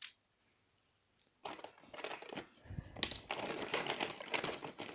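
Small hard plastic make-up items and cases being handled and rummaged through: a quick, irregular run of clicks, taps and rattles that starts about a second and a half in.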